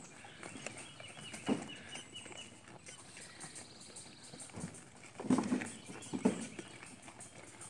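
Goats eating watermelon, with a few loud wet crunches as they bite and chew: one about a second and a half in and a cluster about five to six and a half seconds in.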